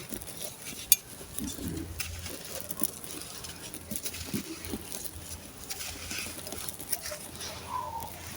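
Dry, gritty sand-cement chunks crumbling and crunching, an irregular scatter of sharp crackles with a few louder snaps.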